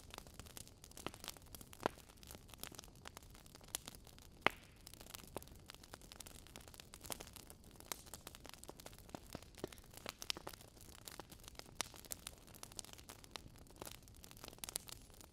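Fire crackling: irregular sharp pops and snaps over a low steady rumble, with one louder pop about four and a half seconds in.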